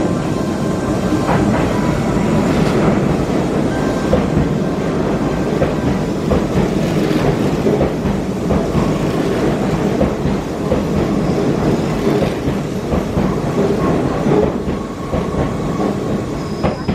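Hanshin Railway electric commuter train moving along the station platform: a steady rolling rumble with wheels clattering over rail joints, fading a little near the end.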